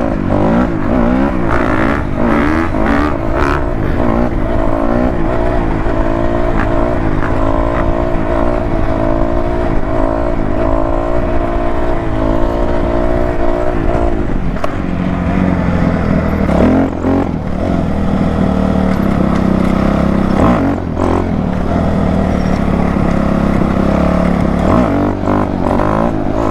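Dirt bike engine revving while riding, its pitch rising and falling over and over, then settling to a lower, steadier note about halfway through.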